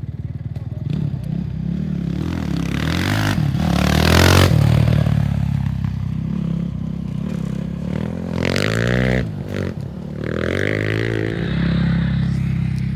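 Engines of off-road race vehicles passing close by, rising in pitch and falling away. One loud pass comes about four seconds in and more pass between about eight and eleven seconds in, over a steady engine hum.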